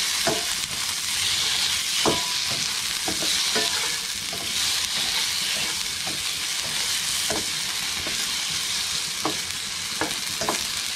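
Tofu strips frying in a little oil in a nonstick wok, a steady sizzle, with a slotted spatula knocking and scraping against the pan now and then as the strips are turned. The tofu is being fried first so that it firms up and does not go mushy.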